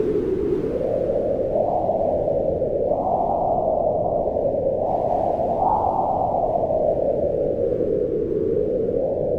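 Wind blowing steadily, a low rushing noise whose pitch rises and falls in slow gusts, swelling highest about three and six seconds in.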